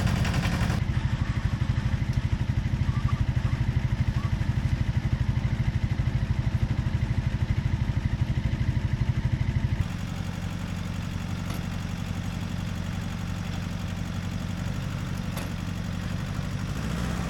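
Small tractor engine running with a fast, even chugging beat. About ten seconds in it becomes quieter and smoother.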